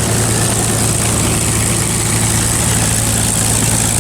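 P-51 Mustang's V-12 piston engine running steadily at low power, propeller turning, as the fighter idles or taxis: a loud, even drone.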